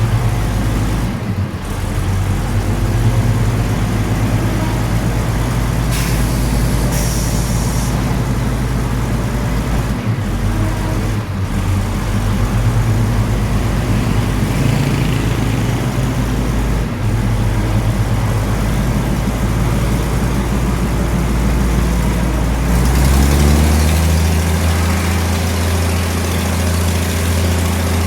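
A train's diesel engine runs steadily under a continuous rumble of the ride. A short hiss comes about six to eight seconds in. Near the end the engine note changes to a steadier, even hum.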